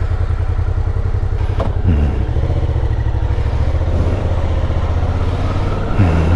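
Motorcycle engine running just after starting, a steady close rumble with brief shifts in pitch about two seconds in and again near the end.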